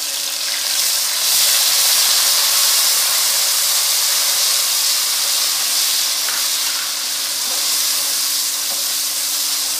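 Ginger-garlic paste frying in hot oil with browned onions, a loud steady sizzling hiss as its moisture hits the oil and it is stirred; the hiss grows louder about a second in.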